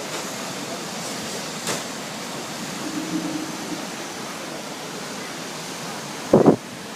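Steady rushing wash of sea surf and wind, with a short loud buffet of wind on the microphone near the end.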